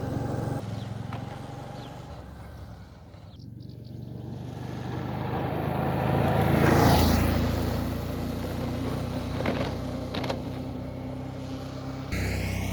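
Suzuki V-Strom 650's V-twin engine running steadily on a ride, with a swell of rushing noise that builds to a peak about halfway through and fades. The sound changes abruptly shortly before the end.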